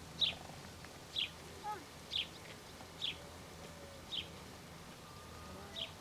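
A bird calling repeatedly, a short high note falling in pitch about once a second, six times, with a few fainter, lower whistled notes between.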